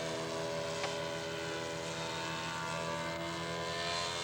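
Engine of a radio-controlled scale model airplane running at a steady pitch.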